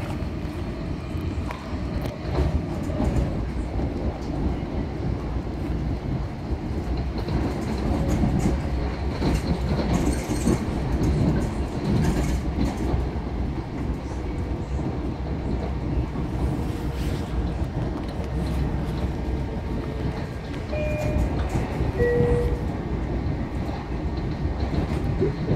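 Long Island Rail Road commuter train running at speed, heard from inside a passenger car: a steady rumble of wheels on the rails with occasional clicks.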